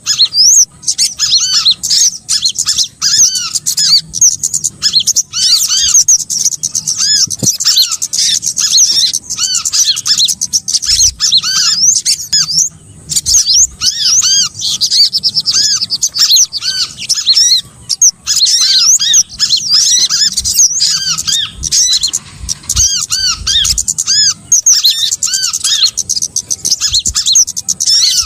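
Bird-trapping lure recording of small songbirds calling: a dense chorus of quick, repeated arching chirps and sharp high notes, many birds overlapping, with only brief pauses.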